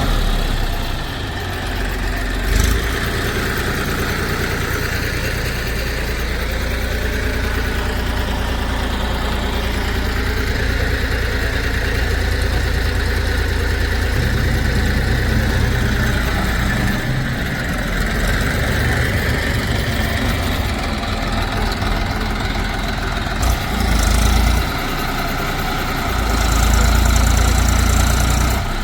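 Engine of heavy machinery running steadily at low revs, its level rising briefly a few times toward the end.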